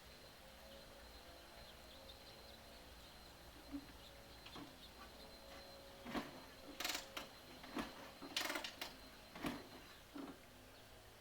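A handful of short mechanical clunks and scrapes from handling the 1942 Harley-Davidson WLA motorcycle ahead of a kick start, clustered about six to ten seconds in over a faint steady background. The engine is not running.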